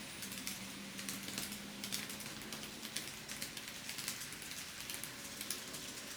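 TOMIX N-scale 207 series model train running on the track: a dense, irregular patter of small clicks from the wheels over the rail joints, with a faint steady motor hum.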